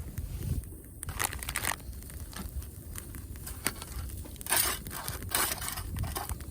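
Crinkling, tearing handling noises in a few bursts, the main ones about a second in and from about four and a half to five and a half seconds in, over a steady low rumble.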